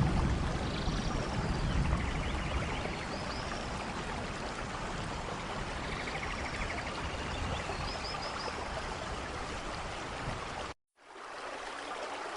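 Steady rain falling, an even hiss, with the low tail of a thunder rumble fading over the first couple of seconds and a few faint high chirps. Near the end the sound cuts out abruptly for a fraction of a second, then the rain resumes.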